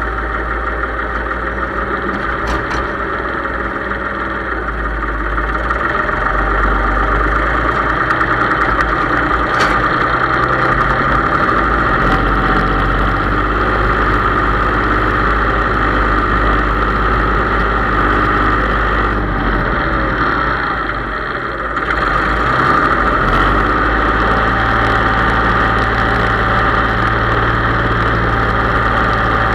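Case IH 3220 tractor's diesel engine running steadily. It grows louder about six seconds in and dips briefly around twenty seconds in before picking back up.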